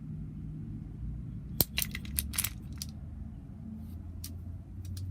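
Wooden toy train trucks clicking and clattering against each other as they are handled, a quick run of knocks about a second and a half in and a few single clicks near the end, over a low steady hum.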